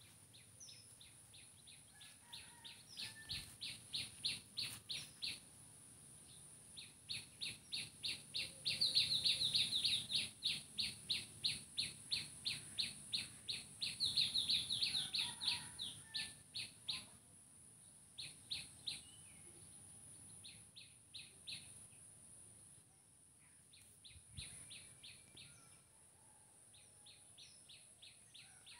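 A bird calling in long runs of short, sharp chirps, about three to four a second, breaking off and starting again several times. A steady high-pitched hiss runs underneath.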